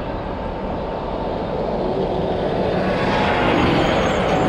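Wind rumbling on the microphone and road traffic noise while cycling, with the traffic noise swelling louder about two seconds in.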